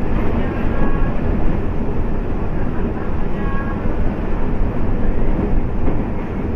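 MEMU electric passenger train running along the track: a steady, loud rumble and rattle.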